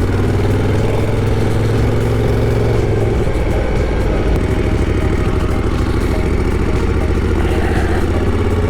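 Moto Guzzi Griso 1200's V-twin engine running as the motorcycle is ridden on the road, over a steady haze of wind and road noise; the engine note holds steady, then changes about three seconds in.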